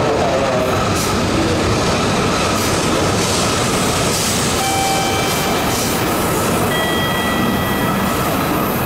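E5 series Shinkansen moving along the adjacent platform track, a steady loud rush of train noise. Faint steady tones come in about halfway through.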